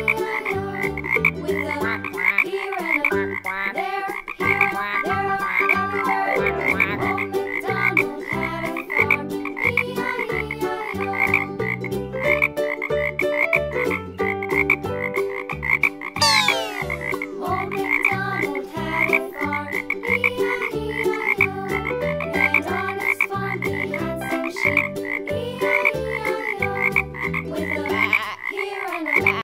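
Frog croaking sound effects repeating in a steady rhythm, with a quick rising sweep about sixteen seconds in.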